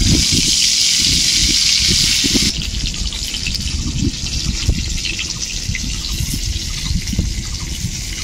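Pointed gourds (potol) sizzling in hot oil in a kadai as they go in to fry. The sizzle starts suddenly and loudly, then settles to a steadier, softer sizzle after about two and a half seconds.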